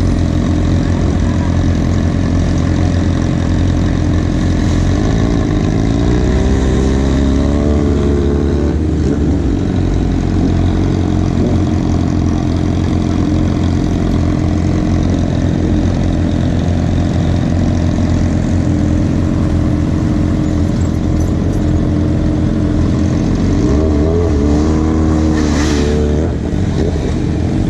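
Motorcycle engine running steadily, its pitch rising and falling as it revs about six seconds in and again near the end.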